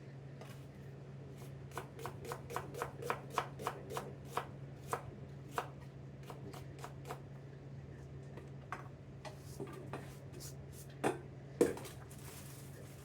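Kitchen knife slicing an onion on a cutting board: a quick run of strokes, about three to four a second, that thins out into scattered cuts, then two louder knocks near the end. A steady low hum runs underneath.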